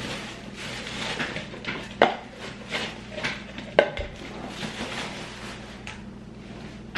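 Cups and soda bottles being handled on a table: rustling and light clatter, with two sharp knocks about two seconds and four seconds in.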